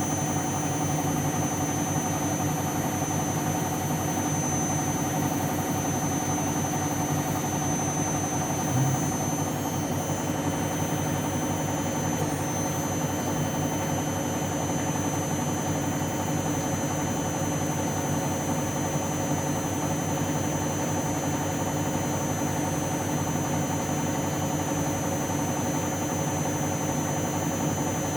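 Candy washing machine in its final spin with an empty drum: the motor and drum spinning at a steady high speed, a constant hum with several held whining tones.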